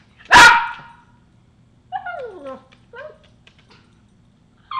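Dog barking once sharply, then whining in falling glides, then starting another short bark at the end: excited begging for a treat.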